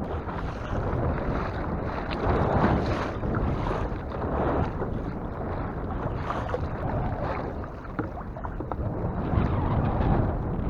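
Heavy wind buffeting the microphone, with water sloshing and splashing around a kayak on choppy sea. The rumble rises and falls in uneven gusts.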